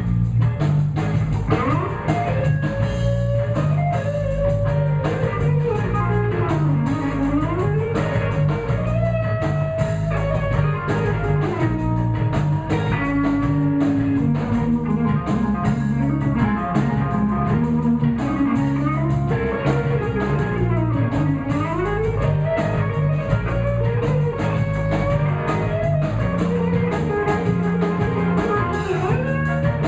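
Live blues band playing an instrumental break: a lead guitar solo bending and sliding over a repeating bass line and a steady drum-kit beat.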